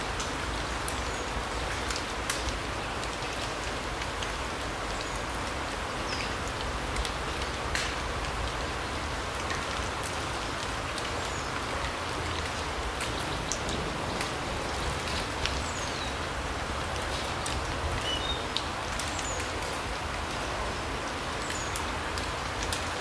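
Larch forest ambience: a steady hiss with scattered drip-like ticks throughout, and a few short, high bird chirps.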